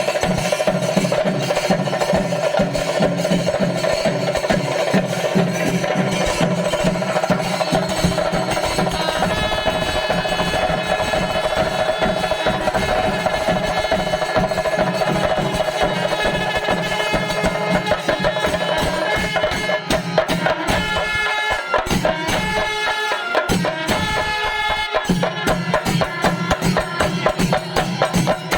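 Kerala temple percussion ensemble playing loudly: dense, rapid drumming with cymbals, joined about nine seconds in by a wind instrument playing held pitched notes.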